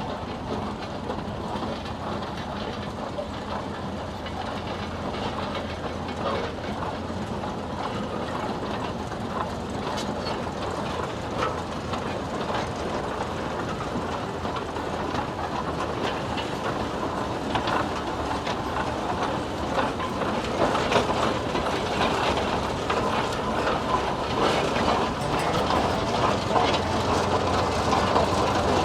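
Steam traction engine running, with a steady busy clatter of small clicks and knocks, growing louder about two-thirds of the way in.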